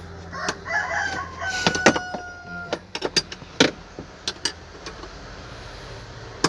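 A rooster crows once, starting about half a second in, with a long held note. After it come a run of sharp knocks and taps, the sound of tool work on the truck's hand brake.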